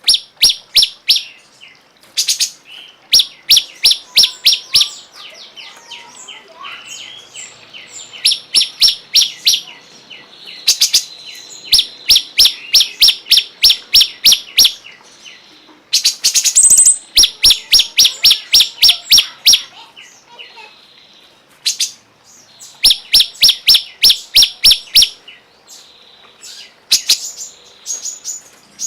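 A cungkok songbird calling in rapid runs of sharp, evenly repeated notes, about six to eight a second. Each run lasts a second or two, with softer twittering between the runs. This is bird-song training (masteran) audio of the kind played for caged songbirds to learn from.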